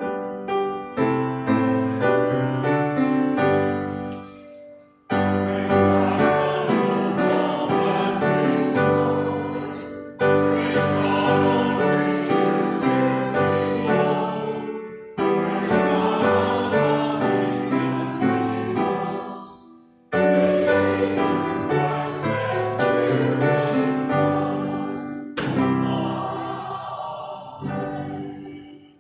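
Piano music for the offertory, played in phrases that break off abruptly into silence about every five seconds.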